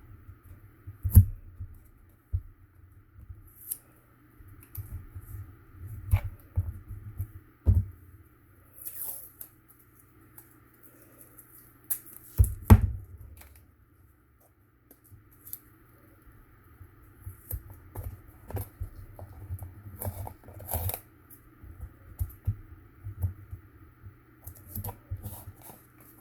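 Masking tape being pulled and torn, with cardboard and paper pieces handled and pressed together: scattered taps, knocks and rustles, loudest about a second in and again around twelve seconds in.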